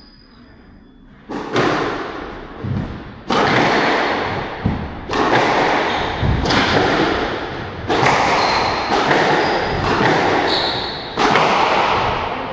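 Squash rally: the ball is struck and thuds off the court walls about every one and a half to two seconds, each hit ringing out in the enclosed court.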